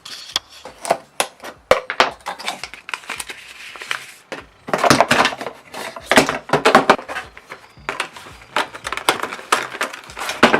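Handling noise close to the microphone: a quick, irregular run of clicks, knocks and rustles as something is fiddled with and adjusted.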